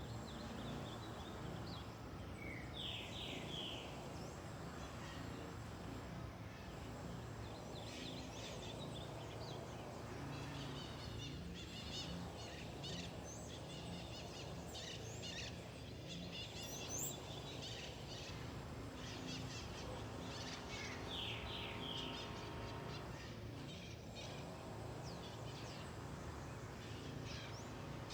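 Wild birds calling and chirping over a steady low background rumble. A short phrase of a few quick rising notes comes about three seconds in and again about twenty-one seconds in, with a busier stretch of chirping in the middle.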